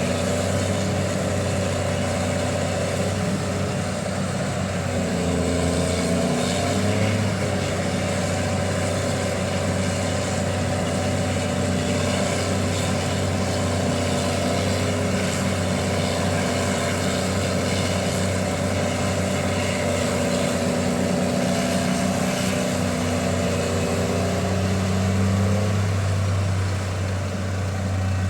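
Heavy diesel engines of a Liebherr 984 hydraulic excavator and the trucks it loads, running steadily, with the engine pitch shifting around five to seven seconds in and again near the end.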